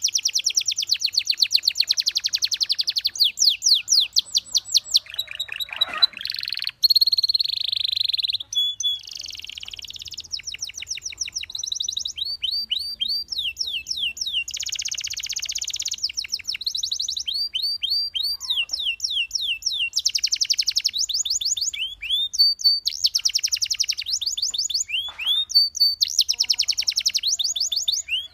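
Belgian canary singing a long, unbroken song of fast trills and quick runs of repeated rising and falling whistled notes.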